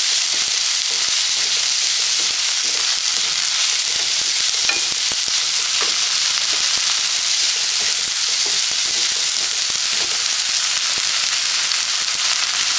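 Chopped onion and tomato with ground spices sizzling in hot oil in a non-stick pan, with a steady frying hiss, while a wooden spatula stirs the mixture around the pan.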